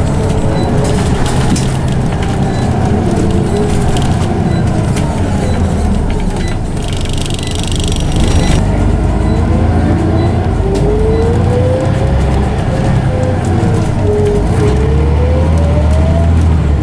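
Scania OmniCity bus driving, heard from on board, with a loud whine from its ZF automatic gearbox rising and falling in pitch as the bus changes speed and gear, over a low engine rumble. A short hiss comes about seven seconds in.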